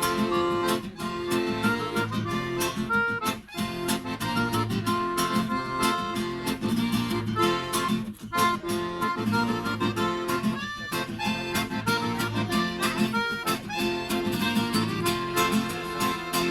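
Instrumental passage of a live acoustic song: a strummed acoustic guitar keeping a steady rhythm under a reed instrument playing held melody notes.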